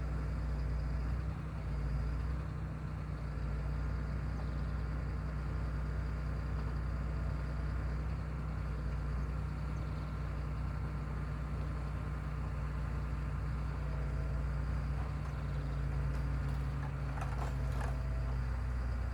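Heavy machine's engine running steadily at a constant speed, with a few brief clicks near the end.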